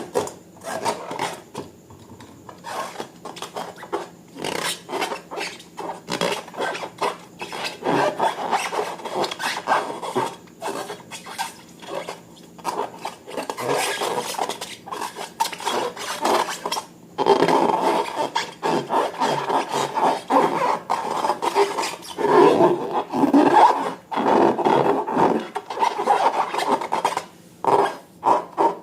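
Slime being stirred and squished by hand or with a tool, giving a continuous irregular sticky crackling and rasping. It grows louder about two-thirds of the way through.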